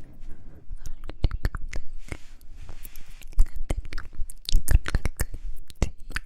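Close-miked ASMR mouth sounds: irregular wet clicks and pops from lips and tongue, with a short breathy hiss about two seconds in.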